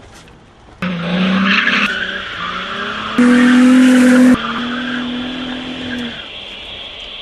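Nissan 350Z's V6 engine running hard at high revs, with tyre squeal as the car slides, in short pieces cut abruptly together. The loudest piece is about three seconds in, holding one steady high engine note.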